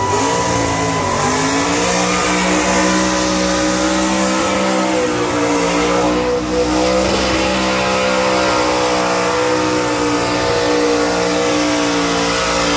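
Burnout car's engine held high in the revs through a smoky burnout. The note dips and climbs back about a second in, then holds steady.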